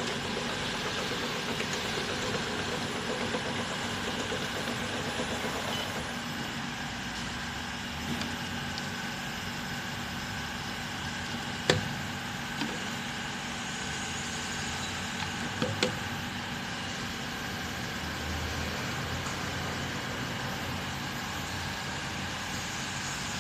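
Bottle labeling machine running steadily with a mechanical hum, with a sharp click about halfway through and a couple more a few seconds later.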